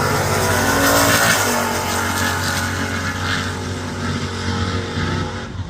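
Drag racing cars' engines running loud at the strip, easing slowly and dipping near the end.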